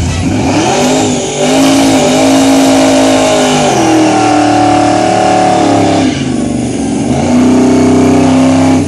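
A car engine revving hard and held at high revs during a burnout. The revs climb over the first second and a half, drop briefly about six seconds in, climb again, then cut off suddenly at the end.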